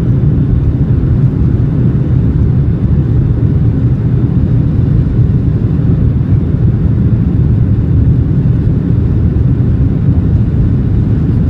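Steady low rumble inside a Boeing 737-800 passenger cabin: engine and airflow noise, even and unchanging.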